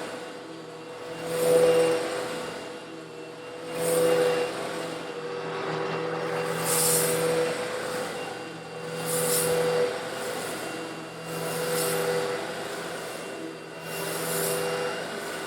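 Old Eureka vacuum cleaner running with a steady motor hum while sucking up small coarse stone granules, a little larger than sand. The sound swells about every two to three seconds with a hissing rattle as the granules are drawn in.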